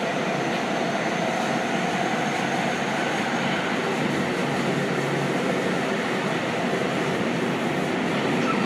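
Seibu 6000 series electric train with Hitachi GTO-VVVF drive running between stations, heard from inside the car in a subway tunnel: a steady rumble of wheels and running gear with a faint steady tone.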